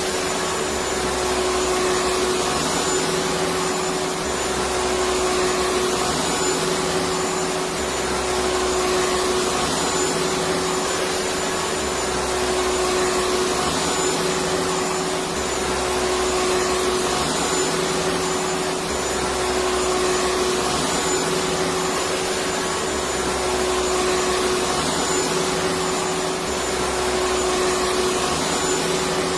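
Vacuum cleaner motor running steadily with a constant hum and whine, used as a white-noise sleep sound for babies. Its low rumble swells and fades regularly, about every two seconds.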